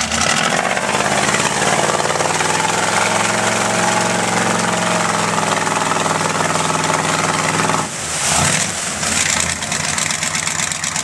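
4x4 mud truck engine running hard at steady revs, then about eight seconds in the steady engine note breaks off into a rougher, noisier sound.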